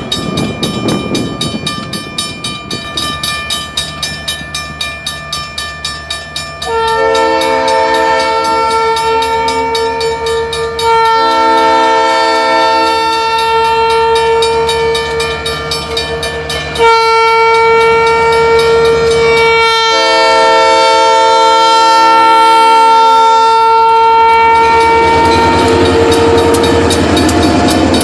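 Diesel locomotive's multi-chime air horn sounding a series of long blasts. Before the horn there is a rhythmic clatter of train wheels on the rails, and the noise of the passing train rises near the end.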